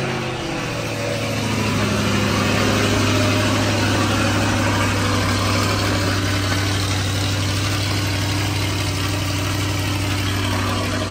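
A 2023 Corvette Stingray's 6.2-litre LT2 V8 just after starting: the start-up flare eases down in the first second or so, and the engine then settles into a steady, loud idle.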